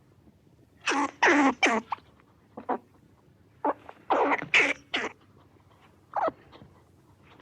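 An animal's short, sharp calls in quick clusters of two to four, each call dropping in pitch, with pauses between the clusters.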